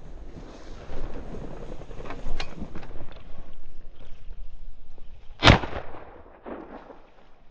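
A single loud shotgun shot about five and a half seconds in, fired at a flushing quail. It follows several seconds of rustling and scuffing through brush.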